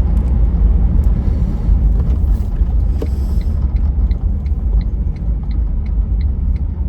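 Car cabin road noise: a steady low rumble of engine and tyres while driving. From about four seconds in a light regular ticking joins it, roughly three ticks a second.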